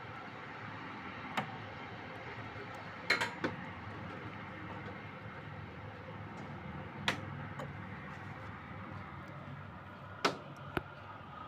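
Steady low hum and hiss with several sharp clicks or knocks scattered through it, two close together about three seconds in.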